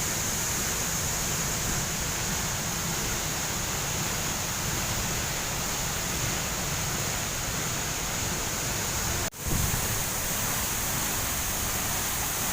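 Waterfall's falling water rushing as a steady, dense noise, broken once by a brief dropout about nine seconds in.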